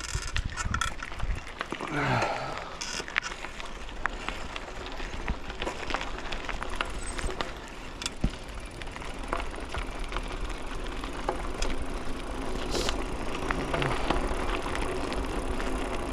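Mountain bike rolling along a woodland trail: continuous tyre noise with frequent small clicks and rattles from the bike.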